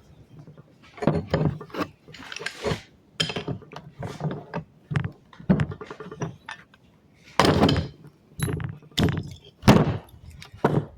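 Irregular metallic clinks, knocks and scrapes of a Cummins PT injector's nozzle and tools being handled as the nozzle is fitted back onto the injector body.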